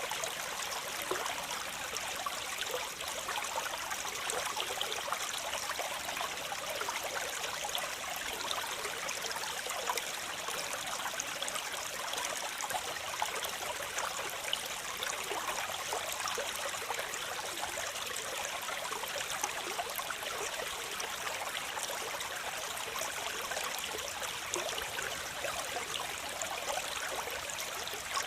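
Waterfall water splashing and running in a steady, even rush, with many small splashes and not much deep rumble.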